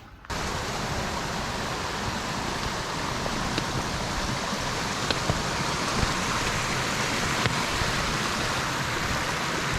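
Steady rush of cascading creek water, with a few faint clicks over it.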